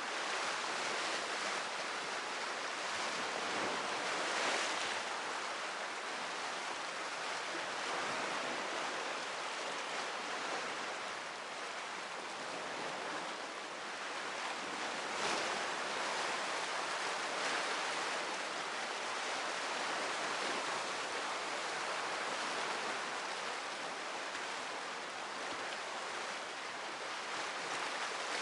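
Sea surf washing steadily onto the shore, swelling and easing, with the brighter rush of a breaking wave about four seconds in and again about halfway through.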